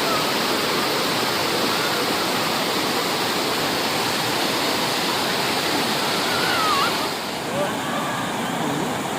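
Waterfall water rushing in a steady, loud, even roar. About seven seconds in it turns duller and a little quieter, with faint voices over it.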